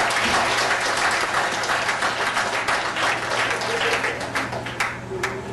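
Audience applauding, with dense clapping that thins out and dies away near the end.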